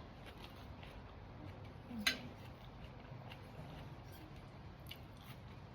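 Faint sounds of someone eating a bowl of noodles: scattered small clicks and one sharper click about two seconds in, over a low steady hum.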